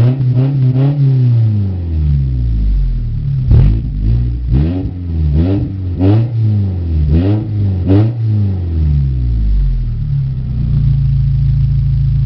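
Mitsubishi 4G93 1.8-litre inline-four engine being blipped through a series of short revs, rising and dropping back each time. It settles into a steady idle near the end.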